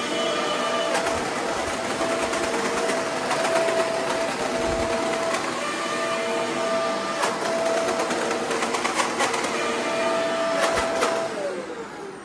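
Shark Powered Lift-Away DuoClean upright vacuum running with a steady whine, debris clicking and ticking as it is sucked up. Near the end the motor is switched off and its whine glides down as it spins to a stop.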